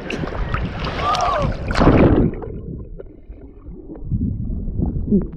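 Ocean water splashing and churning against the microphone as someone ducks into the waves. About two seconds in the sound turns muffled and low as the microphone goes under water, and it clears again near the end.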